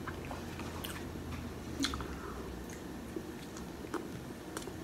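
Close-up chewing of a mouthful of cheeseburger: soft, wet mouth sounds with scattered small clicks, and another bite taken near the end.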